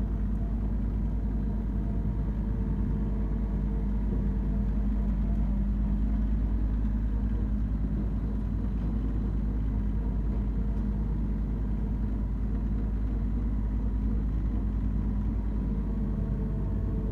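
Branson 3520R compact tractor's diesel engine running at a steady speed while mowing, a constant drone that holds its pitch throughout.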